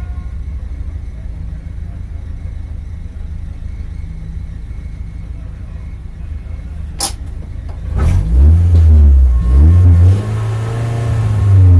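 BMW Compact race car's engine idling with a steady low rumble, then, after a sharp click about seven seconds in, revved up and down several times in quick succession, much louder, as when held ready on the grid before a start.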